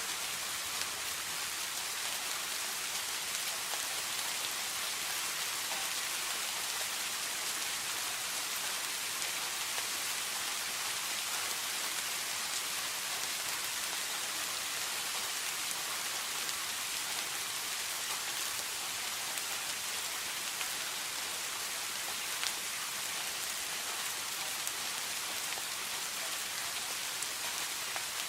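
Steady rain falling on a surface, a dense even hiss of many fine drops with a few slightly louder single drops.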